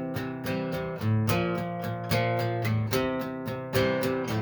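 Acoustic guitar strummed in a steady rhythm, with the chord changing about once a second.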